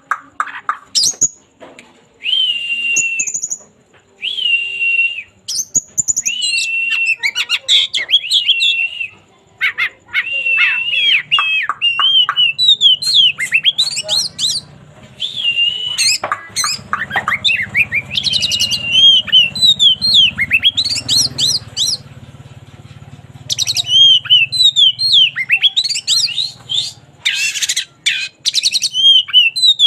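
Songbird singing: short phrases of a held whistled note with a quick high flourish, separated by brief pauses, giving way about ten seconds in to a fast, continuous run of sweeping chirps and trills.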